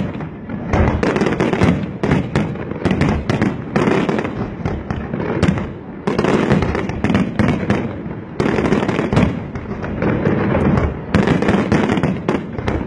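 Aerial fireworks display: a dense barrage of bursting shells and crackle, the bangs coming thick and fast with a few brief lulls.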